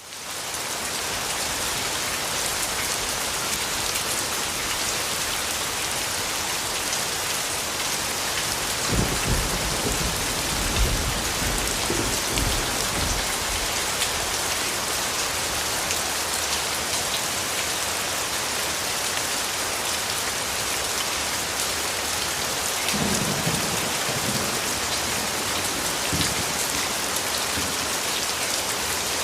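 Steady rain falling, fading in at the start, with low rolls of thunder about nine seconds in and again about two-thirds of the way through.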